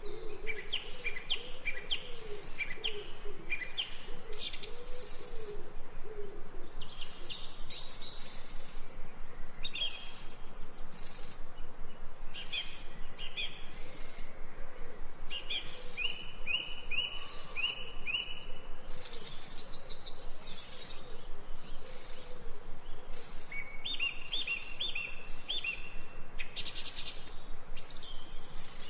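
Ambient birdsong: many small birds chirping in quick repeated short notes. A lower, wavering call sounds beneath them during the first several seconds.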